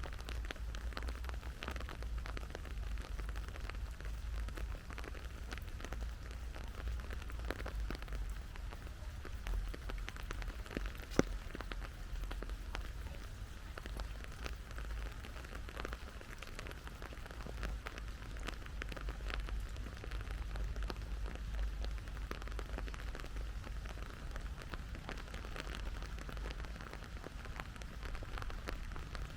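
Steady rain falling, with many small drops ticking close by and one sharper drop or tap about eleven seconds in.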